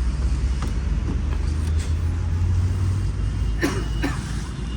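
A truck's diesel engine running steadily with a low rumble. Two brief higher-pitched squeaks come near the end.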